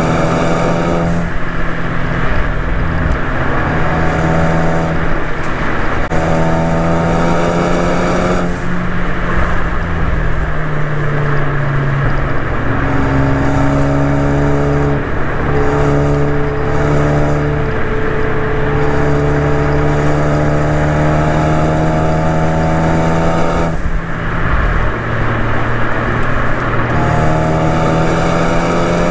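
Turbocharged Ford ST hatchback's four-cylinder engine pulling hard on a mountain road, its pitch climbing steadily and then dropping back several times as it shifts or lifts, over a steady low road drone.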